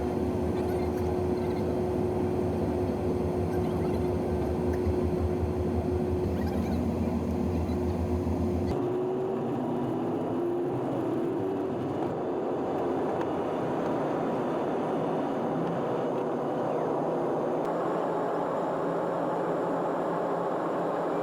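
Cabin noise inside a Boeing 777-300ER airliner around takeoff: steady engine and air-system noise with a steady hum. About nine seconds in, the sound changes abruptly and a tone rises in pitch over a few seconds.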